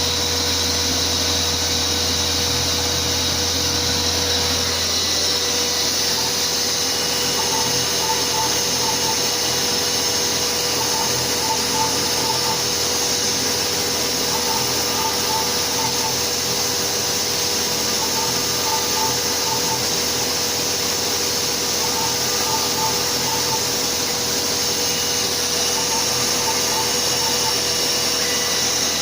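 Chinese 6040Z CNC router's spindle and dust-extraction vacuum running steadily, plausibly while milling out a single-sided FR2 printed circuit board. A faint group of three short tones repeats every three to four seconds.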